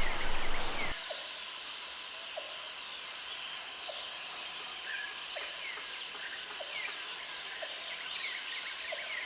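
Rainforest ambience: many short bird chirps and a steady high-pitched insect buzz that starts and stops three times. A louder rushing noise, like wind on the microphone, cuts off about a second in.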